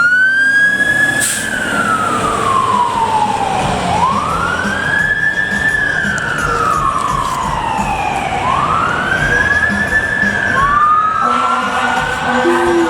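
Fire truck siren on wail, sweeping slowly up and down in long cycles. A second siren overlaps it about two thirds of the way through, and lower steady tones of several pitches join near the end.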